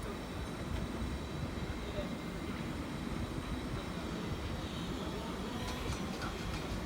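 Electric forklift truck running, a steady low rumble with a faint high whine; a faint rising tone comes in near the end.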